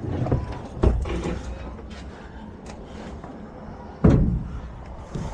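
Two heavy thumps about three seconds apart, from junk being moved and dropped.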